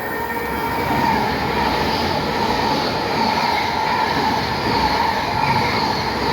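Class 800 train passing through the station at speed: a steady, loud rush of wheels on rail and running gear, with a steady tone running through it.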